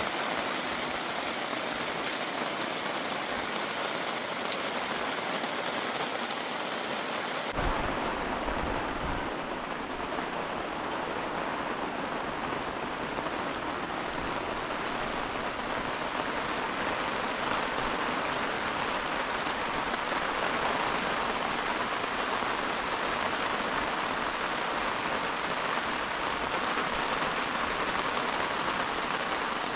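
Heavy rain falling in a steady, even hiss. About seven seconds in the sound changes suddenly and becomes duller, with a brief low rumble, then the rain runs on steadily.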